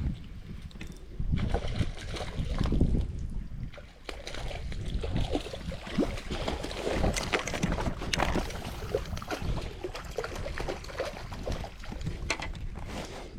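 Water sloshing and splashing unevenly, with scattered clicks and knocks.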